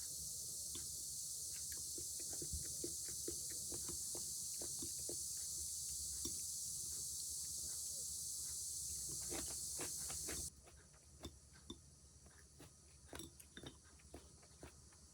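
A chorus of cicadas buzzing as one steady high hiss, which cuts off abruptly about ten seconds in. Small clicks and taps, like eating or utensil sounds, run through it and carry on afterwards.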